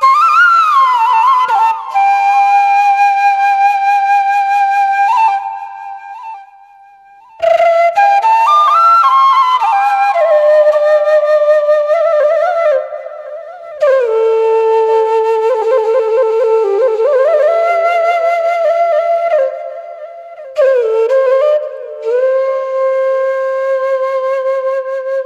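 Background music: a solo flute melody of held notes with slides and ornaments, which fades out briefly about six seconds in and then carries on.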